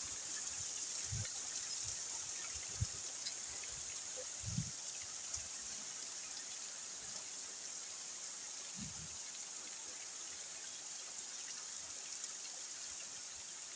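Steady rain falling and splashing, heard as an even hiss, with water hitting a car and blowing off. A few brief low thumps come through it, the loudest about three and four and a half seconds in.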